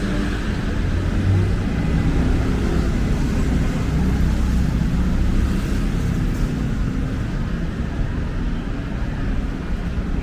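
Steady city street traffic noise: a continuous low rumble of passing engines and tyres.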